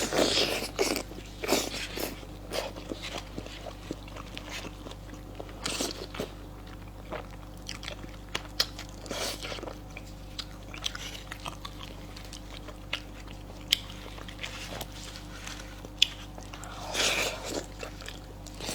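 Close-miked eating: chewing and biting with many sharp, irregular crunchy clicks and a few longer rustling smacks, the typical sound of a mukbang.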